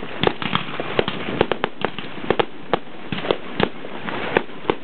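Aerial fireworks bursting: a rapid, irregular run of sharp pops and bangs, several a second, over a steady hiss.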